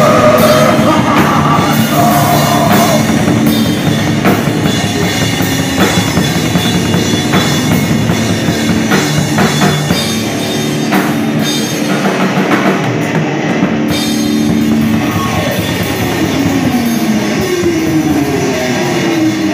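Heavy rock music played by a full band with a drum kit, a singing voice near the start, and sliding notes near the end.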